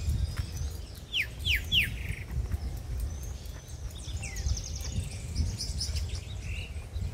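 Songbirds calling in the trees: three quick downward-slurred whistles a little after a second in, then a fast high trill and scattered chirps about four to five seconds in, over a low rumble.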